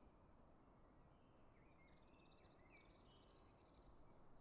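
Faint woodland ambience: a songbird sings two short phrases of high chirps in the middle, over a low steady hiss.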